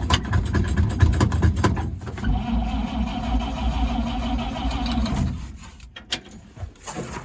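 1953 Chevrolet 3600 truck engine being cranked by the starter, chugging at about five beats a second, then a steadier whir for about three seconds before it stops. It does not start, which the owner puts down to no fuel reaching it.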